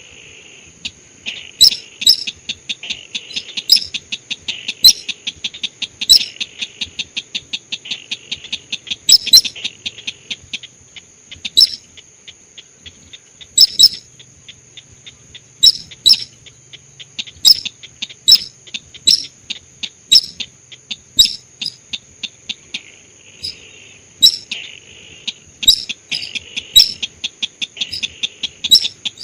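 Recorded lure call of the sintar ricefield bird: sharp, loud call notes repeated irregularly about once a second, with fast rattling trills early on and again near the end, over a steady thin high whine.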